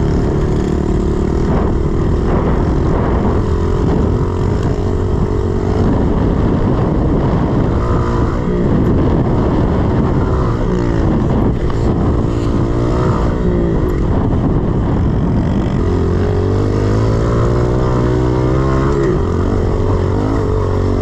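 A 110cc four-stroke pit bike engine running hard on a dirt track, its pitch climbing and dropping repeatedly as the rider revs up and backs off.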